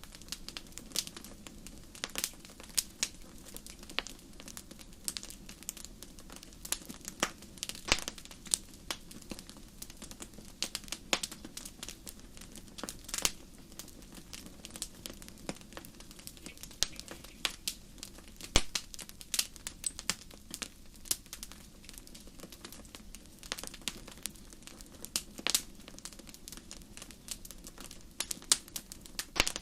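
Wood fire crackling in a fireplace: frequent irregular sharp pops and snaps over a steady low hiss of burning.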